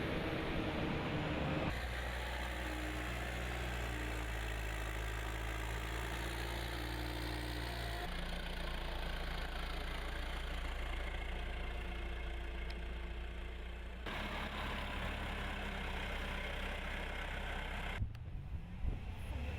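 Engines running steadily, with a low, even hum. The sound changes abruptly about 2, 8, 14 and 18 seconds in, as one shot cuts to the next.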